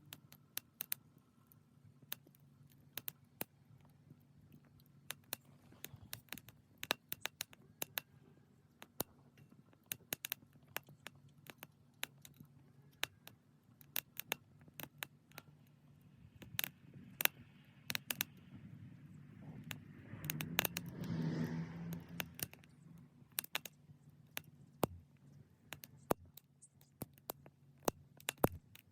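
Small wood fire crackling, with sharp irregular pops and snaps over a low steady hum. A louder rushing swell rises and fades about two-thirds of the way through.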